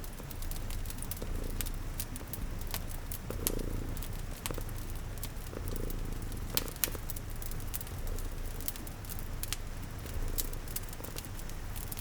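A cat purring steadily and low, mixed with a wood fire crackling in scattered sharp pops and a soft patter of rain.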